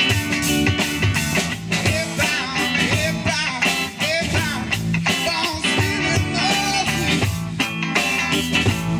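Live rock and R&B band playing: electric guitars, bass and percussion, with lines gliding in pitch over the beat.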